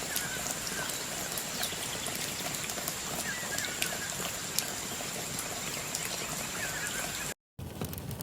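Wood fire crackling and hissing in a Solo Stove, with scattered sharp crackles over a steady hiss and a thin steady high tone. A few short chirping calls come through in the background. The sound cuts off for a moment near the end and resumes as the same crackling fire.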